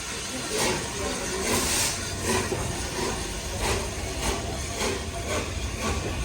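Steam locomotive working, its exhaust giving regular chuffs about three every two seconds over a steady hiss and low rumble.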